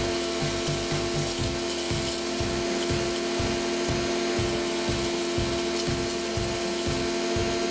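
Wood chipper running with a steady machine hum, its cutters knocking irregularly, about two to three times a second, as wood is fed through.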